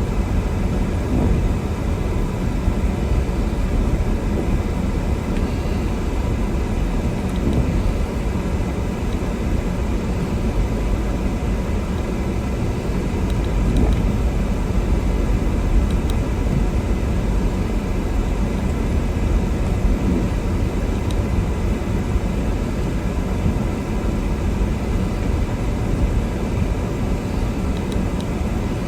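Steady low rumble of a car in motion, heard from inside the cabin: engine and tyres on a snow-covered road.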